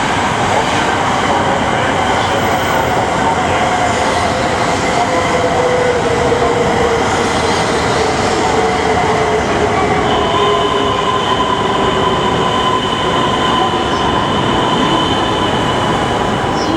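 Shinkansen bullet train pulling into the platform and braking. The rolling noise of wheels and traction motors is loud, its tones sliding slowly down in pitch as the train slows, and about ten seconds in a steady higher whine sets in.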